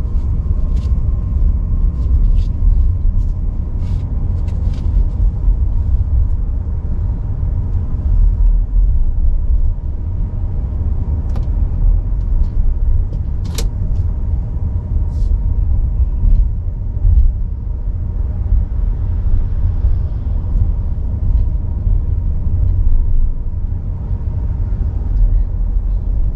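Car on the move: a steady low road and engine rumble, with scattered faint ticks.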